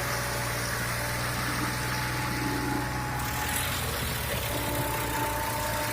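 Diesel tractor engine running steadily, its note shifting about three seconds in.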